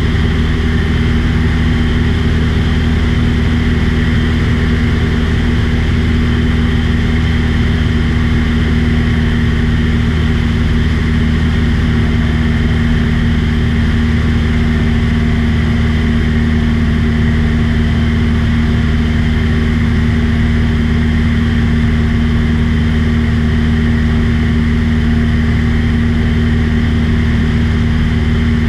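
Small propeller aircraft engine running steadily at cruise, heard on board as a constant low drone.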